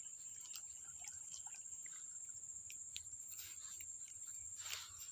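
Insects trilling in a steady, high-pitched drone, with scattered faint ticks. A brief rushing sound comes near the end.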